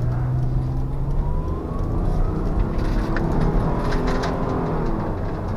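2004 Honda Odyssey's 3.5-litre V6 pulling hard under acceleration, its pitch rising through the first couple of seconds over steady road noise. It runs on six freshly replaced spark plugs and accelerates smoothly, without the hesitation it had before.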